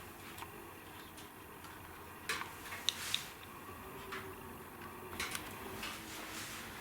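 Wood fire crackling in a fireplace: irregular pops and snaps over a soft hiss, with a cluster of sharper cracks about two to three seconds in and another around five seconds.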